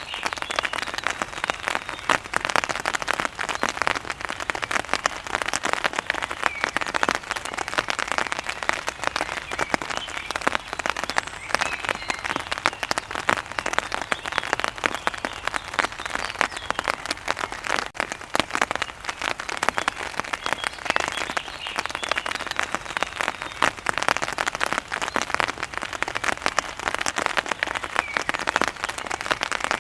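Steady heavy rain falling on a hard surface: a dense, even patter of countless drops that holds level throughout.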